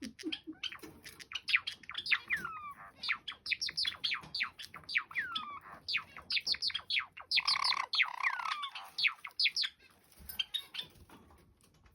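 Male Java sparrows singing together: fast strings of clicky notes and quick downward chirps, mixed with slower falling whistles, busiest between about three and nine seconds in and thinning out near the end.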